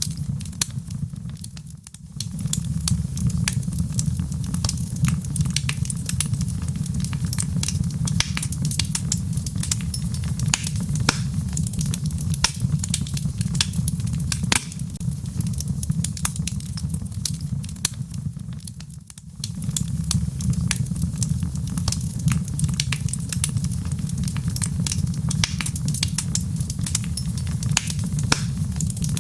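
Logs burning in a fireplace: a steady low rumble of flame under dense, irregular crackling and popping. The sound dips briefly twice, near the start and about two-thirds of the way in.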